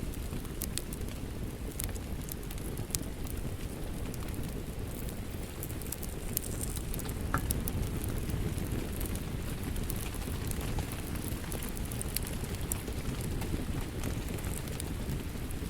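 Wood fire crackling with scattered sharp pops over a steady rush of rain.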